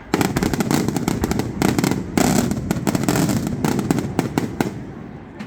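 Fireworks going off in a dense, rapid run of bangs and crackling that starts just after the beginning and thins out near the end.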